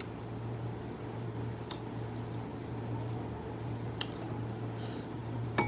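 Steady low hum with a few faint, brief clicks.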